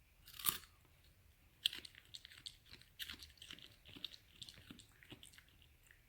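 Shiba Inu dog chewing crunchy food noisily: a loud crunch about half a second in, another just after a second and a half, then a quick irregular run of smaller crunches and clicks.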